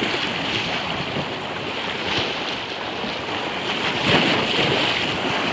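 Sutlej river in flood, its water rushing steadily, with wind buffeting the microphone. The rush swells louder about four seconds in.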